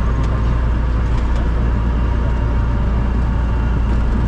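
Cessna 172's piston engine and propeller running steadily, a constant low drone.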